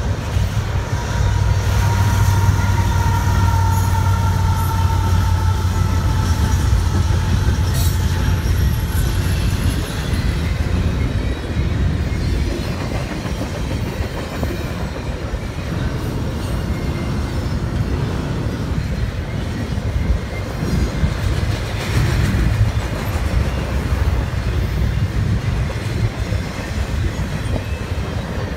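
Double-stack container cars of a long CSX freight train rolling past on steel rails: a steady rumble with occasional wheel clicks. A high, slightly falling squeal from the wheels runs through the first several seconds.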